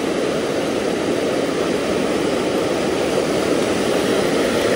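Steady rush of creek water pouring over a low dam.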